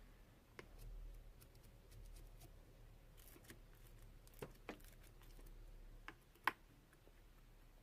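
Near silence: room tone with a low hum and a few faint, scattered clicks and taps, the sharpest about six and a half seconds in.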